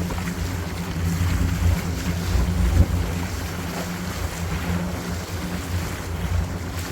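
Yacht under way: wind buffeting the microphone and water rushing along the hull, over a steady low hum.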